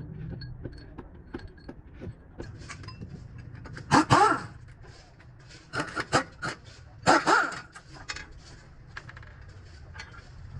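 A dog barking in short outbursts, once about four seconds in and again about seven seconds in, over a low steady rumble.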